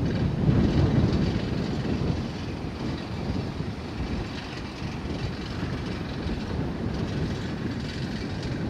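Strong typhoon wind rumbling and buffeting on the microphone, a deep irregular roar that is loudest in the first two seconds and then eases a little.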